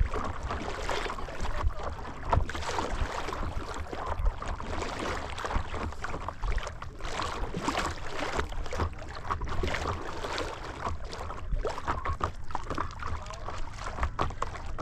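Paddle-board paddle dipping and pulling through lake water, making irregular splashes, with water lapping against the board and a low rumble underneath.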